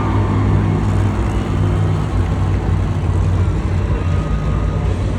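Monster truck's engine running with a steady low drone.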